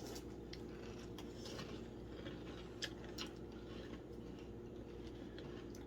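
Faint chewing and small scattered clicks of someone eating milk-soaked Fruit Loops cereal.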